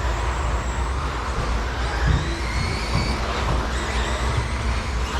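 RC stadium trucks with 13.5-turn brushless electric motors racing: faint high motor whines rising and falling as the trucks speed up and slow, over a steady low hum.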